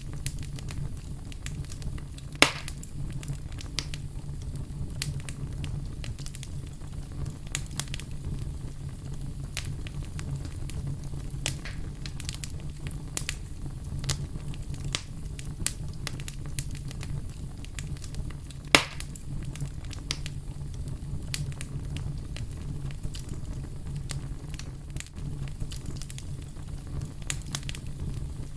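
Fire crackling: many small scattered crackles over a steady low rumble, with two much louder sharp pops, one about two and a half seconds in and one about nineteen seconds in.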